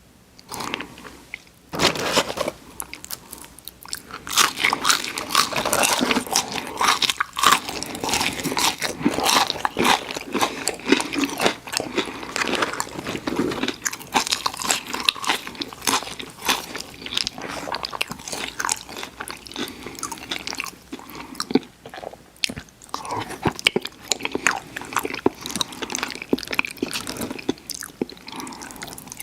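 A person biting and chewing crunchy fried food, with dense irregular crunching that starts about two seconds in.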